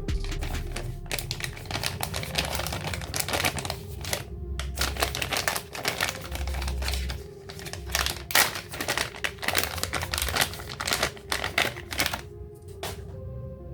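Rapid irregular clicking and clattering of small plastic toy parts being handled and snapped together, over background music. The clicks pause briefly about four seconds in and thin out near the end.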